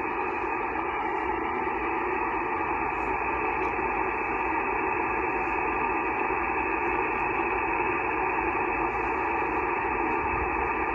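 Steady band noise hissing from a Yaesu FT-891 receiver on 15-metre SSB, held within the narrow voice passband, with no station transmitting.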